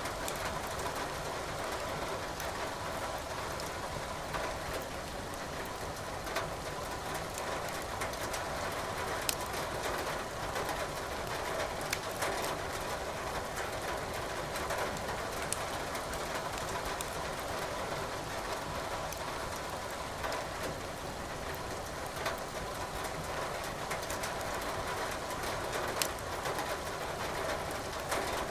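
Steady rain with wood logs crackling in a fireplace, a few sharp pops standing out now and then.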